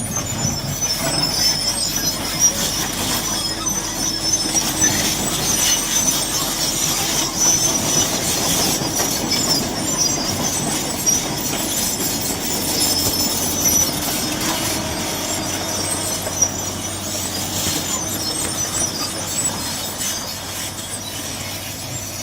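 Excavator at work: engine running steadily under a continuous high-pitched metallic squeal, strongest in the first half.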